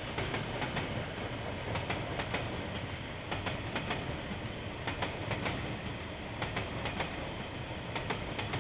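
Train wagons rolling past: a steady rumble with a quick, irregular run of clicks and knocks from the wheels on the track.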